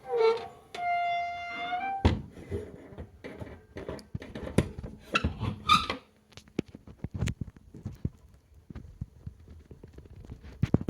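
Glossy vinyl shorts squeaking as they are rubbed and stretched: a pitched squeak held for a little over a second near the start. Crackly rustling and sharp clicks of the handled material follow.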